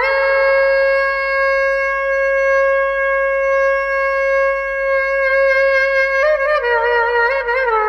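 Background music: a solo wind instrument holds one long note for about six seconds, then moves into an ornamented, wavering melody.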